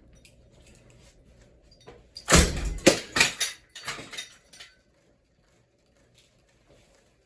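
A quick run of clattering, jangling knocks from a ceiling fan being handled, starting about two seconds in and lasting about two and a half seconds, over a faint low hum.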